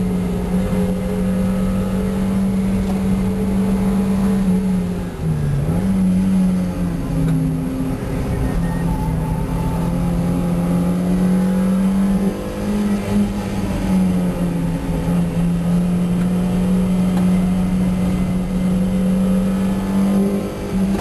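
A 1990 Mazda MX-5's 1.6-litre four-cylinder engine running hard at steady high revs on track. Its pitch drops briefly about five seconds in and again around twelve seconds, then climbs back.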